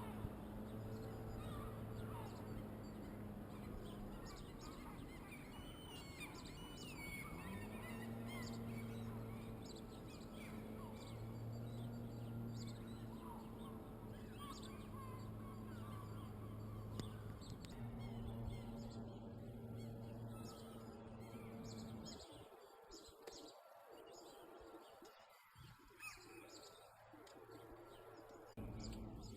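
Birds calling in short chirps over a steady low drone. The drone cuts out for a few seconds near the end.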